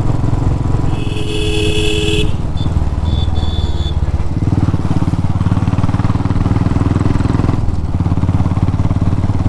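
Motorcycle engine running while riding on the road, its note rising about four seconds in. A brief steady tone sounds for about a second near the start.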